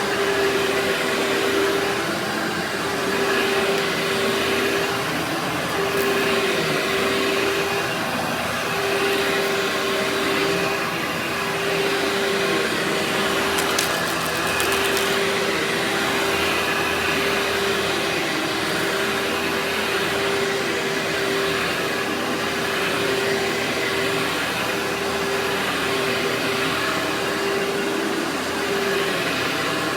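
Vacuum cleaner running steadily, a noisy drone with a strong hum that briefly breaks every few seconds as the suction changes. A brief crackle about halfway through.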